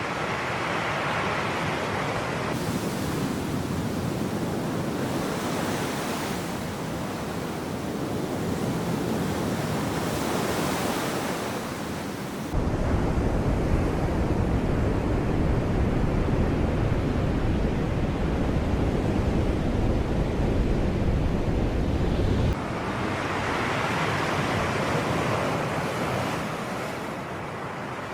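Sea waves washing in, the surf rising and falling in slow swells. About halfway through a low rumble cuts in suddenly and stops just as abruptly some ten seconds later, like wind buffeting the microphone.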